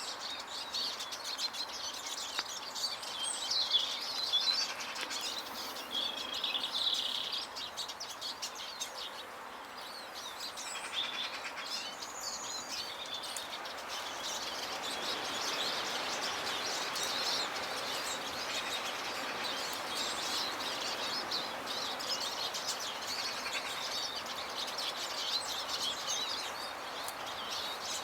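Small garden birds at feeders chirping and twittering, many short high calls overlapping, over a steady background hiss of outdoor noise.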